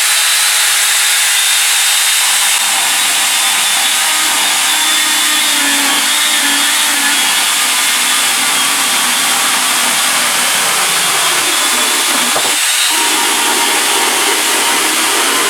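Electric angle grinder fitted with a chainsaw attachment, running steadily with a high motor whine while its chain cuts through wood.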